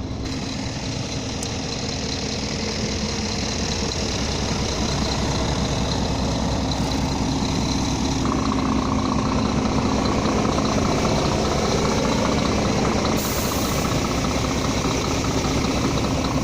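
Scania G440 truck's 13-litre six-cylinder diesel engine idling steadily, growing slightly louder, with a change in tone about eight seconds in.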